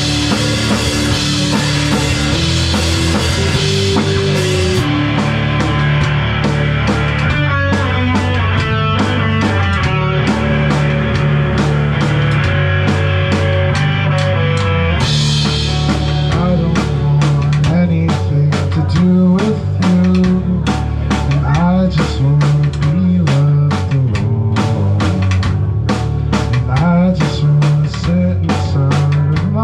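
Live rock band playing loud, with drum kit and guitar. The cymbal wash drops out about five seconds in, and a steady run of sharp drum hits carries the second half.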